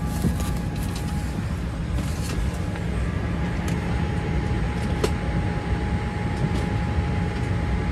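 Airliner cabin ambience at the gate: the steady low rumble of the cabin air and ventilation with a thin steady whine, broken by a few sharp clicks and knocks, the loudest about five seconds in.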